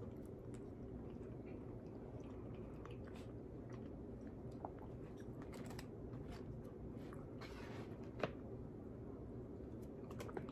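Close-miked chewing and mouth sounds of someone eating, with small clicks of a plastic utensil against a plate and one sharper click about eight seconds in, over a steady low hum.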